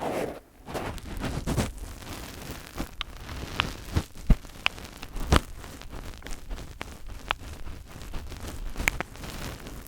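Fingers rubbing and scratching directly on a microphone: a close, rustling scrape with a scattering of sharp taps. The loudest taps come a little past halfway, and one more near the end.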